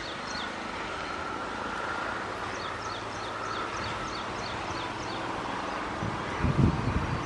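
A bird chirping over and over in short, high notes, over a steady outdoor hiss. Wind gusts buffet the microphone near the end.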